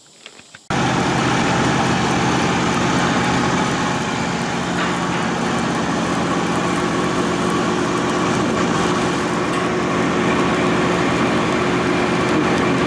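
An engine running steadily, cutting in abruptly less than a second in and holding an even pitch and level throughout.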